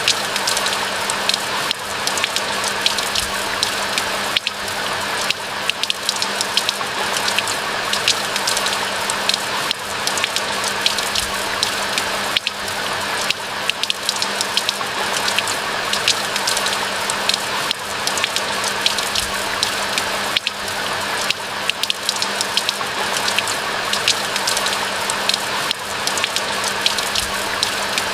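Steady rain falling in a pine forest: a continuous hiss, thick with the fine ticks of individual drops striking.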